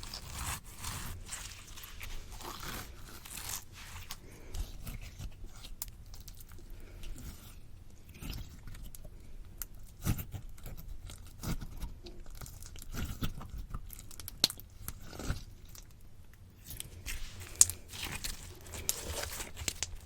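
Slime being squished and pulled against a microphone: irregular sticky, wet clicks and pops with low rumbles from the handling.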